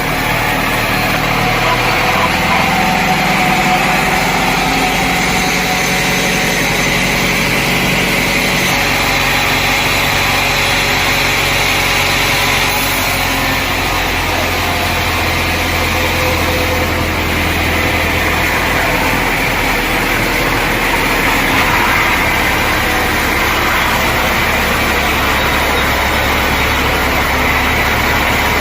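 Sawmill machinery running: a steady engine drone with a hiss over it, its low hum stepping to a different pitch a few times.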